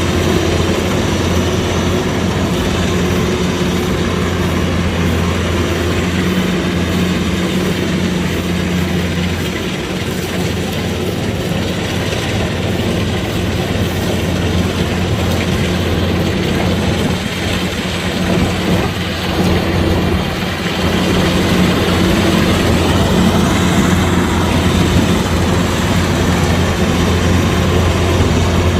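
Kubota DC-105X combine harvester's diesel engine running steadily while harvesting rice, with machine noise over it. It eases slightly about a third of the way in and again just past the middle, then runs a little louder.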